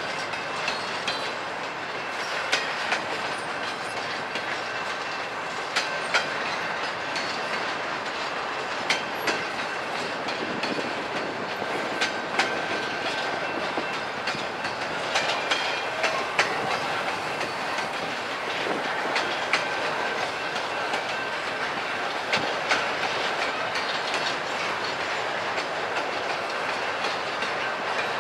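Double-stack intermodal freight train of well cars loaded with shipping containers rolling past. Its wheels make a steady rolling rush on the rail, broken by frequent sharp clacks as the wheelsets cross rail joints, with a faint steady high whine underneath.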